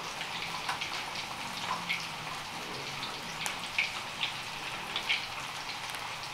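Pork cracklings (torresmo) frying in hot oil: a steady sizzle with scattered crackles and pops.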